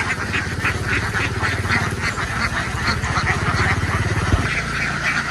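An engine running steadily close by, with a flock of ducks quacking over it.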